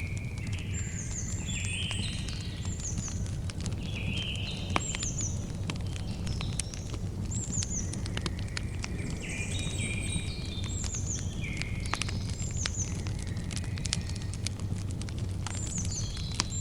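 Campfire crackling, with frequent sharp pops over a steady low rumble, while birds call over and over in short chirps and downward-curling notes.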